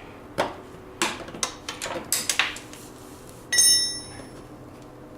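Metal hand tools clicking and knocking against snowmobile suspension parts: a string of sharp clicks over the first two and a half seconds, then a single ringing metal clink about three and a half seconds in.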